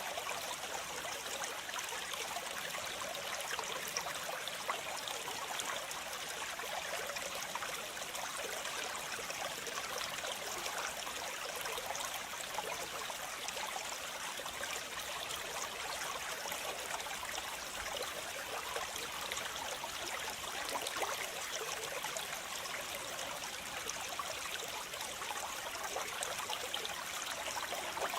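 Waterfall: a steady, unbroken rush of falling and splashing water, mostly hiss and spatter with little deep rumble.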